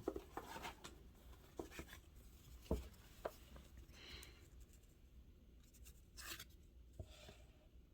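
Faint rustling and light taps of old paper letters being handled and shuffled, with soft brushing sounds about four and six seconds in.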